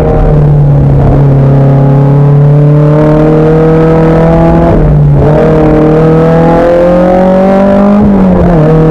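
Race car engine pulling under load, its pitch climbing slowly. The pitch drops briefly about five seconds in and again near the end, then climbs again: gear changes.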